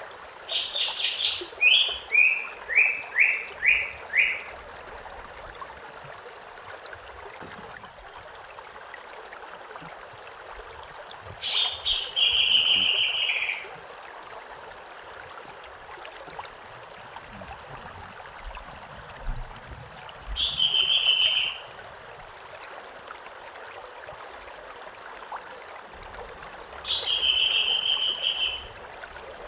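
A songbird sings four phrases over a steady flowing stream. The first phrase is a fast high trill that steps down into a run of about six separate, falling notes. Three shorter, buzzier phrases follow, about ten, twenty and twenty-seven seconds in.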